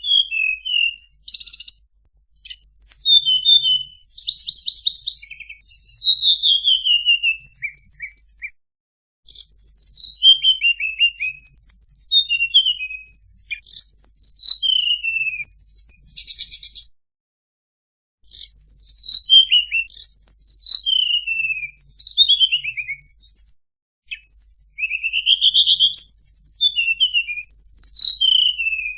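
Tledekan (Cyornis blue flycatcher) song: a run of varied high whistled phrases, many falling steeply in pitch, mixed with fast buzzy trills. It comes in bouts of several seconds separated by short pauses.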